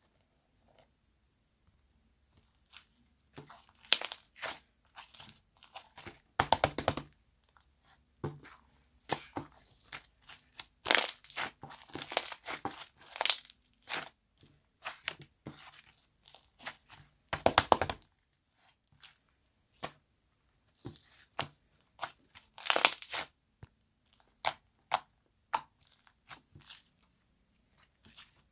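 Slime being pressed and stretched by hand: irregular crackling and popping bursts that begin about two seconds in, with a couple of louder bursts about seven and eighteen seconds in.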